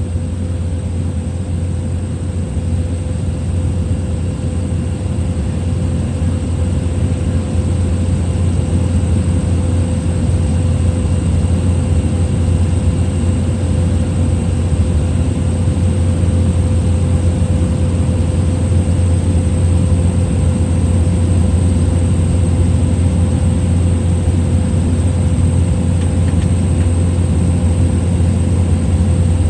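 Small plane's piston engine and propeller droning steadily in cruise, heard from inside the cabin as a strong, even low hum with a faint steady whine above it.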